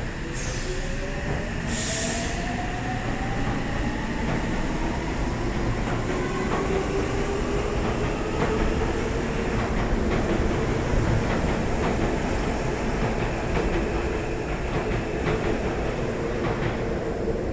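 Electric train's traction motors whining up in pitch as it accelerates, then holding steady, over wheel and rail rumble. A short hiss comes about one to two seconds in.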